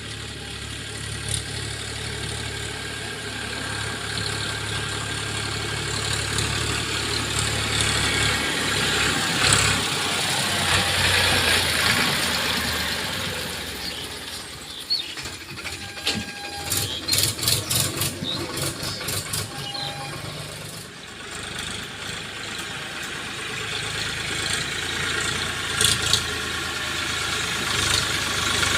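Diesel engine of heavy earthmoving machinery running steadily. It rises in the middle, and a burst of rattling, clanking strokes follows partway through.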